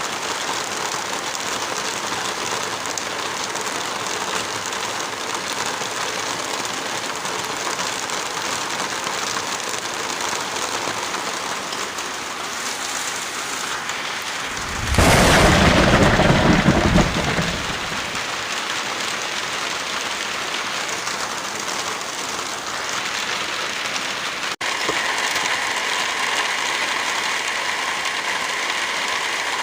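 Heavy rain falling in a steady hiss. About halfway through comes a loud, deep rumble lasting about two seconds. A brief dropout follows some eight seconds later, after which the rain's texture changes.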